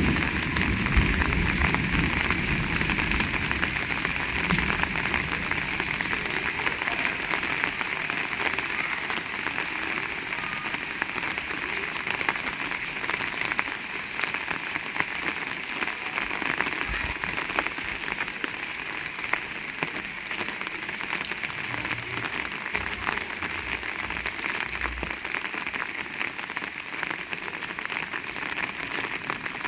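Heavy rain falling steadily: a dense, even hiss of rain with many close drop impacts.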